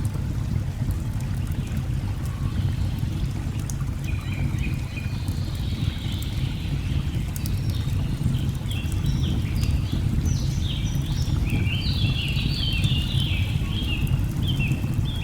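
Steady low rush of a waterfall, with birds chirping in quick repeated calls from about four seconds in. Faint scattered crackles of burning logs come through on top.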